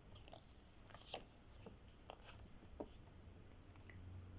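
Near silence: quiet room tone with a few faint, short clicks and rustles.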